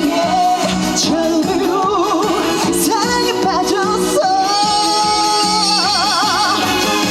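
Female trot singer singing live over the backing music, with a long note held with vibrato from about four seconds in.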